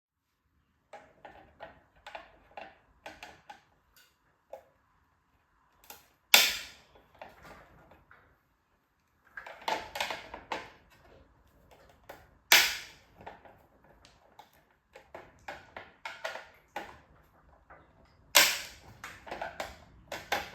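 A scattered run of small clicks and taps, with three sharp, loud knocks about six seconds apart.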